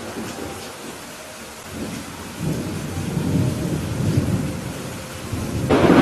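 Thunderstorm: steady rain with thunder rumbling low from about two and a half seconds in, then a louder thunder crash near the end.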